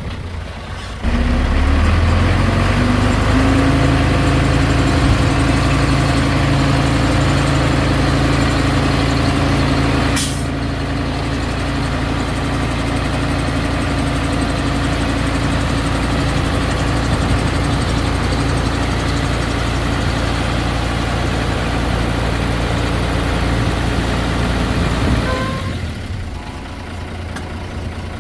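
Heavy diesel engine of earthmoving machinery running steadily, rising in pitch over the first few seconds and then holding. A sharp click comes about ten seconds in, and the engine drops lower near the end.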